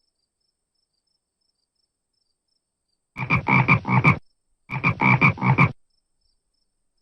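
Frog croaking in two bouts of about five croaks each, the first starting about three seconds in and the second after a short pause, over faint, regular high insect chirping.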